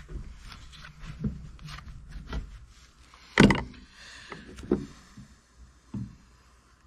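Metal tools and parts knocking and clanking on the cutlass bearing housing: a string of short clunks, with one loud metallic strike about three and a half seconds in that rings on briefly.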